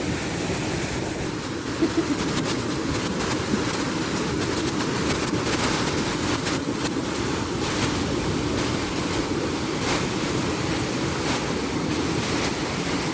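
Steady rushing of falling water from a waterfall, with two brief knocks about two seconds in.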